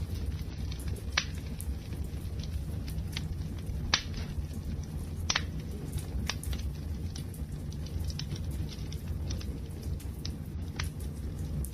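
Wood fire burning, a steady low rumble with scattered sharp crackles and pops; the loudest pops come about a second in and again around four and five seconds in.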